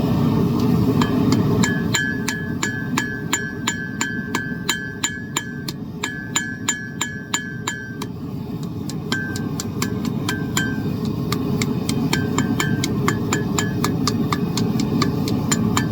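Hammer striking hot steel on an anvil in a steady rhythm, about three blows a second, each with a ringing ping. The blows pause briefly about halfway through, then carry on less regularly. Underneath is the steady roar of a propane forge burner.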